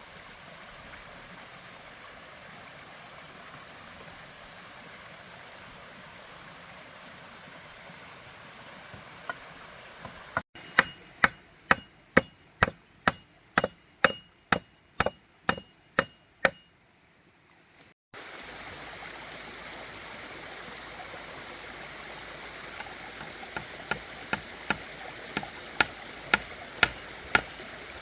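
Rapid, evenly spaced strikes of a hand tool on wood, about two a second, in two runs with a pause between; the second run starts faint and grows louder. A steady hiss and a thin high steady tone run underneath.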